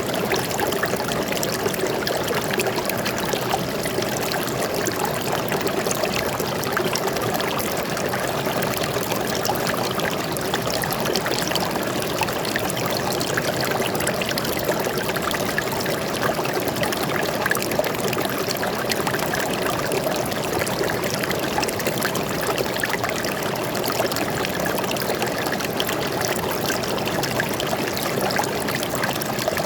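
Stream water flowing steadily over rocks, a constant splashing and trickling babble with no change in level.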